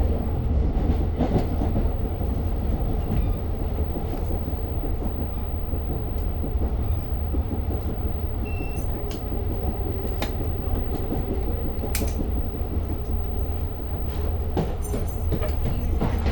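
Long Island Rail Road passenger car under way, heard from inside the car: a steady low rumble of wheels on the track with scattered clicks and rattles.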